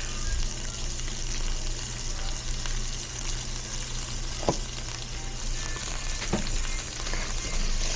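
Food sizzling steadily in a frying pan, with two or three sharp clicks partway through.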